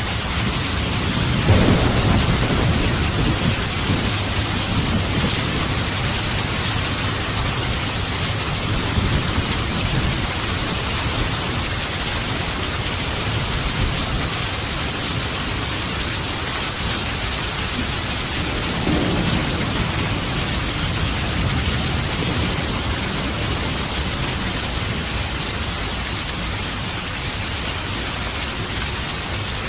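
Steady heavy rain falling, with rolls of thunder rumbling about a second and a half in and again about two-thirds of the way through.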